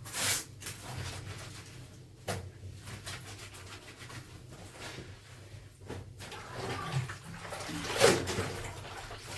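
Clothes being washed by hand: wet fabric sloshing and being scrubbed in water, in irregular bursts, the loudest a sharp splash-like sound about eight seconds in.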